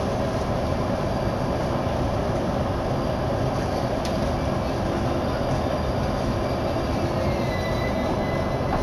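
Keihin-Tohoku Line electric commuter train heard from inside the car, a steady running rumble as it slows into a station. Near the end a thin whine falls in pitch and then holds as the train comes to a stop.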